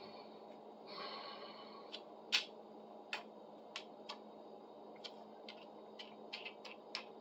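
Scattered small clicks and taps from handling a reassembled folding pruning saw, with a brief scrape about a second in and one sharper click just after two seconds, over a faint steady hum.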